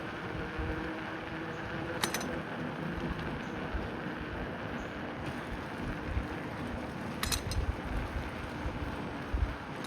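Steady rushing noise and low buffeting from riding a bicycle: wind on the microphone and tyre rumble, with two sharp clicks, about two seconds in and again about seven seconds in.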